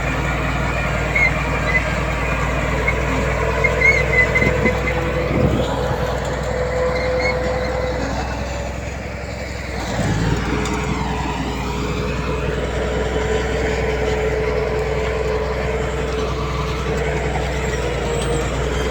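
Heavy diesel earthmoving machinery running steadily, with short high squeaks in the first few seconds and a brief drop in loudness around the middle before the engine note comes back up.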